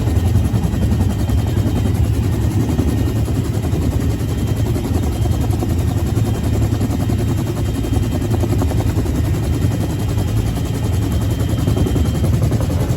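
Bell UH-1H Huey helicopter heard from on board: the T53 turboshaft's steady run under a loud, rapid, even chopping from the two-bladed main rotor. It holds steady without letting up.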